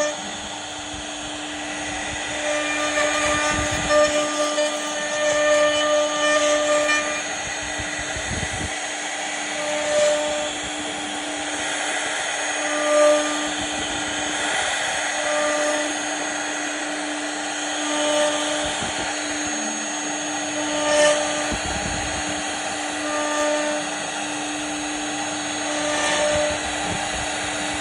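CNC router spindle running with a steady whine as its bit carves wood. Short higher tones and swells in loudness come every couple of seconds as the cut changes.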